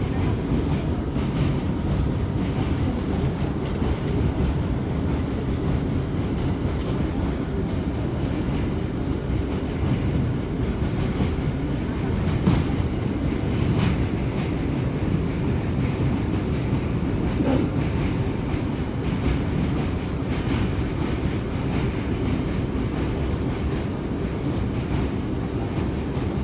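Inside an R179 subway car under way: a steady rumble of wheels on the rails, with scattered light clicks.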